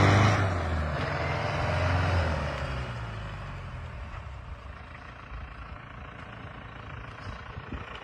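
Heavy diesel vehicle engine running with a steady low hum, loud at first and dying away over the first few seconds to a faint rumble.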